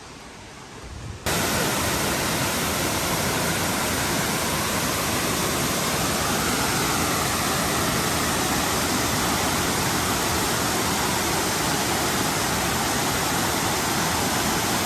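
Waterfall: a steady, loud rush of falling water. It begins abruptly about a second in, after a quieter stretch.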